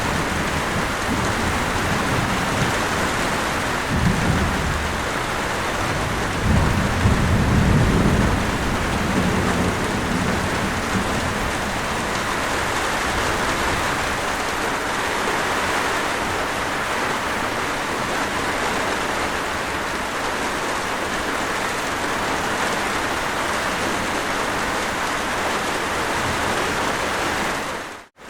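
Steady heavy rain with low rolling thunder rumbling through the first ten seconds or so. Near the end the rain fades quickly to silence.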